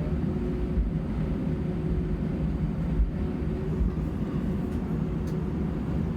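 Cabin noise inside an Airbus A320-family airliner: a steady low engine hum and rumble, with a few brief thumps.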